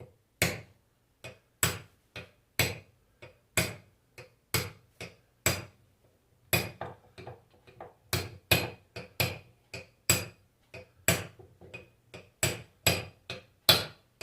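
Light hammer taps, about two a second with a short pause near the middle, driving a new ball bearing into a Fiat Idea alternator's housing. The blows fall only on the bearing's outer race.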